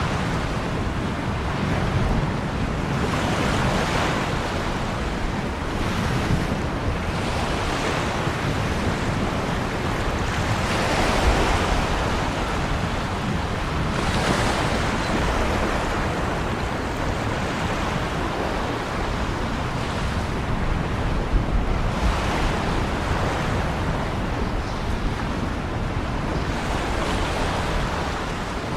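Ocean waves breaking and washing in, a continuous surf noise that swells every few seconds, with wind.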